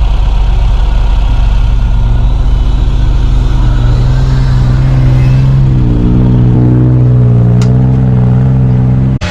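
Off-road vehicle engine running under steady load with a continuous drone, its pitch wavering slightly in the second half. A short sharp click sounds near the end.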